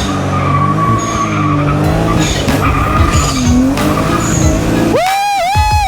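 BMW N54 twin-turbo inline-six revving hard and holding high revs during a burnout, with the rear tyres spinning and skidding. About five seconds in, a high, wavering squeal takes over.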